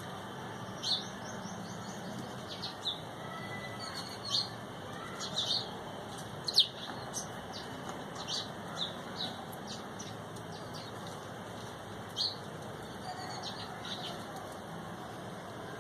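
Birds chirping: short, sharp, high chirps at irregular intervals, the loudest about six and a half seconds in, over a steady background hiss.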